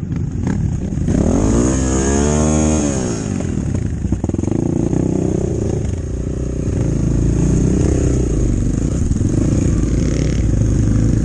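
Enduro motorcycle engine running under way off-road. It revs up and back down about a second in, then runs on steadily.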